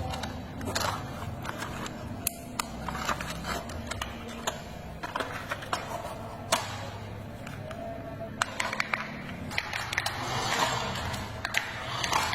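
Irregular sharp clicks and taps of a plastic toy truck being handled, over a low steady background hum.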